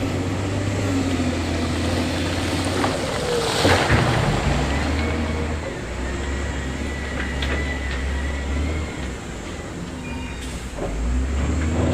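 Heavy construction machine's diesel engine running, its note dropping lower about four seconds in after a loud rush of noise. Thin metallic squeals and clanks come later.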